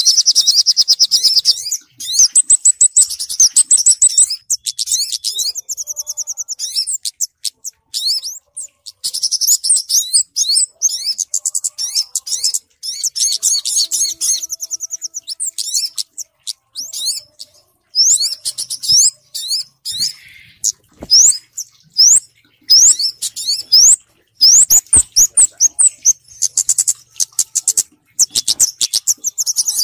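Bird-lure recording of small birds, kemade combined with sogok ontong calls: rapid high chirps and trills in repeated bursts, broken by short gaps.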